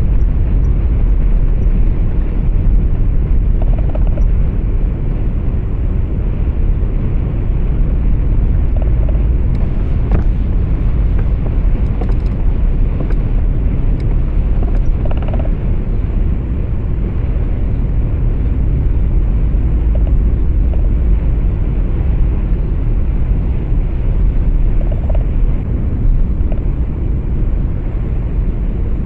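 Steady low rumble of a truck on the move, heard from inside the cab: engine and road noise together.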